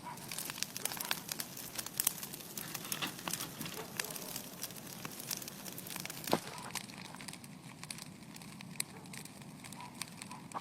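Bonfire burning, crackling and popping in irregular sharp snaps over a steady hiss, with one louder pop about six seconds in.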